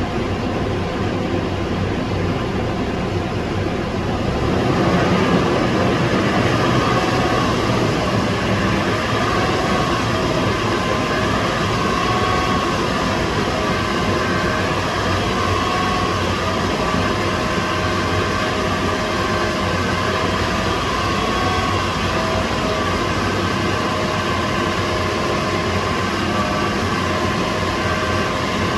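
Toyota 4Runner's 4.0-litre V6 engine and exhaust running steadily, heard from inside the cabin. About five seconds in the engine is brought up to a higher speed and held there, running louder with a steady drone.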